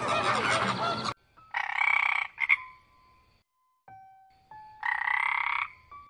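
A flamingo flock honking for about the first second, then a tree frog calling: two croaking calls about three seconds apart, the first followed by a short extra note.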